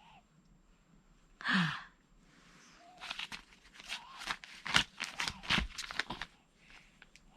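Baby-feeding clatter: a short breathy sigh about a second and a half in, then a run of irregular clicks, taps and scrapes of a spoon against the cereal bowl and high-chair tray, with a couple of duller knocks in the middle.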